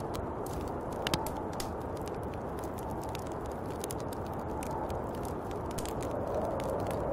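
Snowstorm wind blowing steadily, a low rushing with a soft howl that swells again near the end. Many small sharp ticks and crackles are scattered through it.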